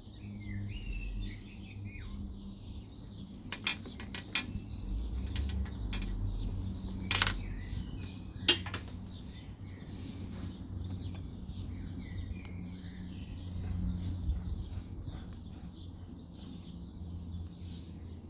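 Small birds chirping and singing throughout, over a few sharp clinks and knocks of tools and small parts being handled while a leaf blower's carburettor and throttle linkage are refitted; the loudest clinks come about halfway through.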